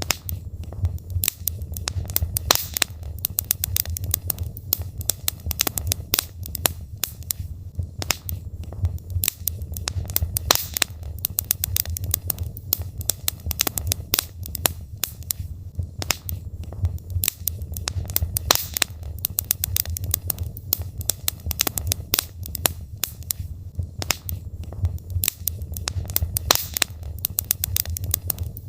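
Wood logs burning in a fireplace: continuous crackling with many irregular sharp pops and snaps over a steady low rumble of the fire.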